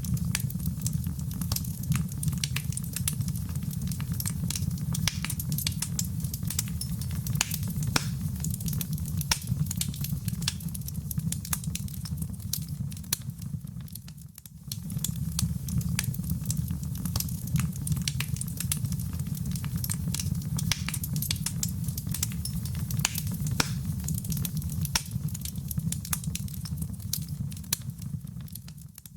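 Wood fire in a fireplace crackling, with dense small pops over a steady low rumble. The sound dips briefly about halfway through.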